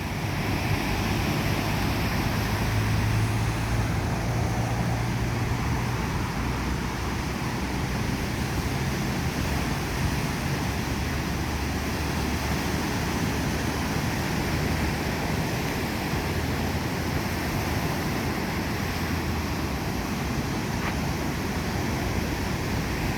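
Steady ocean surf and wind noise, with a low rumble during the first half.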